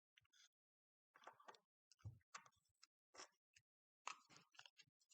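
Faint, irregular clicks, taps and light scrapes of small parts being handled on a workbench, a little busier about four seconds in.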